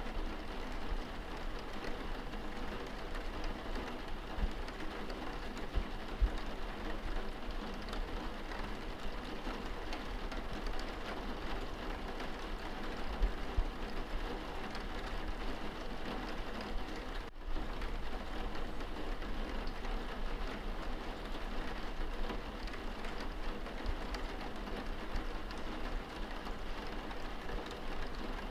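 Steady rain on window glass, heard from indoors: an even patter of drops with occasional small knocks.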